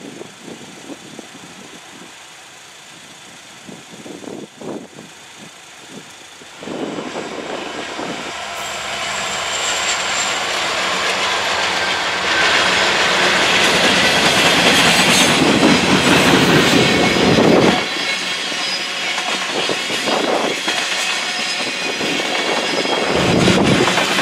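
Freight train passing close by, its wheels and cars running on the rails. It comes in suddenly about six and a half seconds in and grows louder, loudest through the middle.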